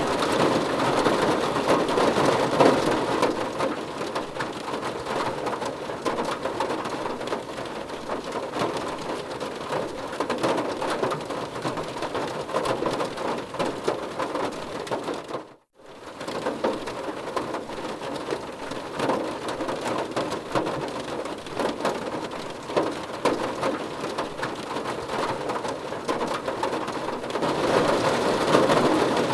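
Heavy rain falling steadily, a dense patter of drops. About halfway through the sound cuts out abruptly for a split second, then comes straight back.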